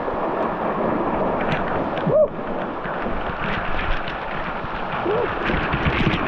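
Steady rush of canyon stream water, with a couple of short vocal sounds about two and five seconds in.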